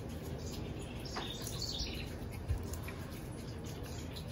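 Quiet outdoor background with a faint bird chirp about a second and a half in, and a soft low thump about two and a half seconds in.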